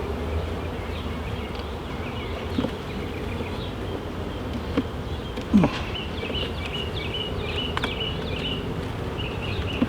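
Honeybees buzzing steadily around an open hive during a frame inspection, with a few light knocks.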